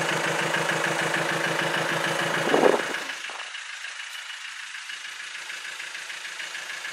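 Diesel engine of a CrossCountry passenger train running steadily with a low pulsing beat, then dropping away sharply about three seconds in.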